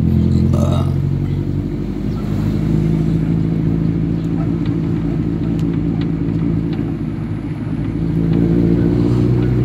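Car engine running steadily while driving, heard from inside the cabin as a low hum, a little louder near the end.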